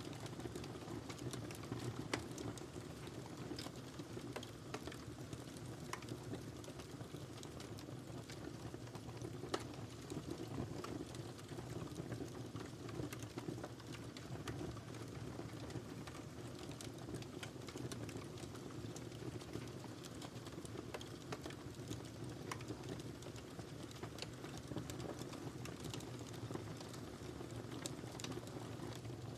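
Fire crackling in a fireplace: a steady low rustle of burning with frequent small pops and snaps. Two sharper pops come about two seconds and about nine and a half seconds in.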